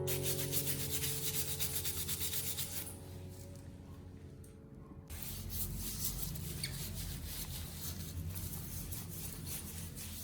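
Brisk scrubbing in quick repeated rubbing strokes on a hard surface. It pauses for about two seconds partway through, then starts again.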